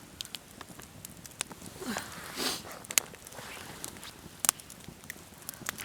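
Wood campfire crackling: sharp pops at irregular intervals over a faint hiss of the burning, with a short soft rush about two seconds in.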